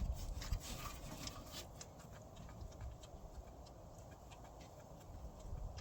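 Faint, irregular light clicks of a ratchet wrench and loosened bolt being worked by hand, thicker in the first two seconds and sparse after that, with a low rumble that dies away about half a second in.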